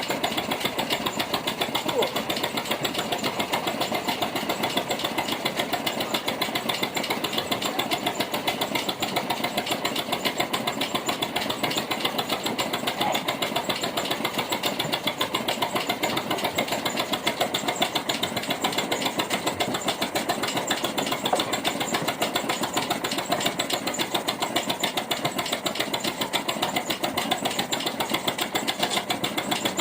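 Ruston & Hornsby 165DS diesel shunting locomotive's engine running steadily, with a fast, even beat that does not change.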